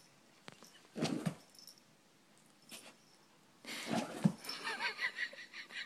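Dog sneezing: one sneeze about a second in and another, sharper one about four seconds in. High wavering squeaks follow it.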